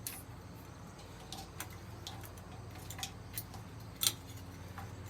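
Irregular light clicks and taps of small hard parts being handled, with one sharper click about four seconds in, over a steady low hum.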